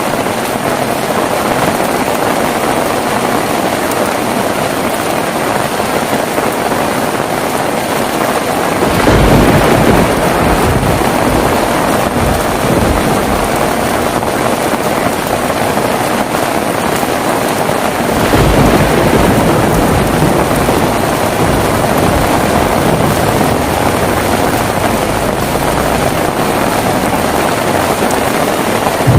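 Heavy rain falling steadily, with thunder rolling in about nine seconds in and again about two-thirds of the way through, each roll a long low rumble.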